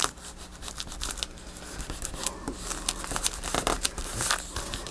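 Paper and washi tape crinkling and rustling under the fingers as the tape is pressed down into a paper hinge, with scattered small clicks and taps.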